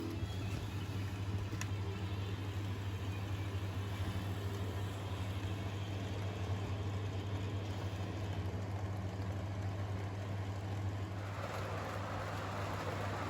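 Sound decoder of an HO-scale model CC 72000 diesel locomotive playing a steady diesel engine running sound with a low hum. About 11 s in, a steady rushing noise joins it.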